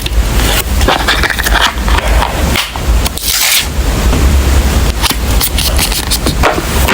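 Continuous scraping and rumbling noise, made to imitate a construction site, with a heavy low rumble and a string of rough scraping strokes.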